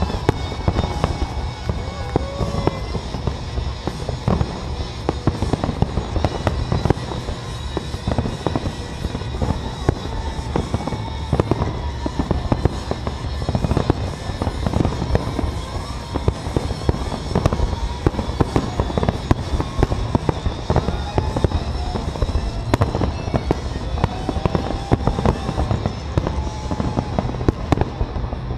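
Aerial fireworks bursting in a dense, continuous barrage of bangs and crackles.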